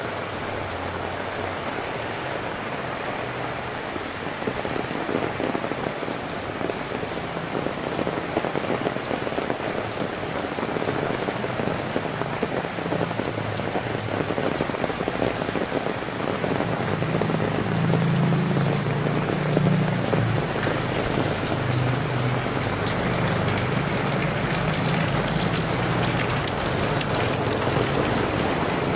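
Heavy rain falling in a steady dense hiss. A low rumble joins in about halfway through and grows a little louder.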